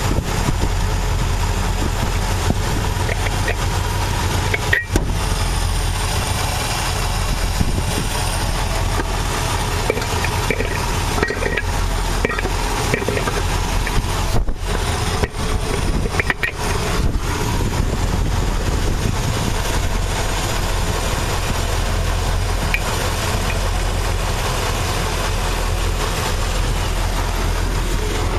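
Rebuilt 383 Super Commando big-block V8 with a four-barrel carburettor idling steadily. A few light metallic clicks come as the chrome air cleaner lid is unscrewed and lifted off.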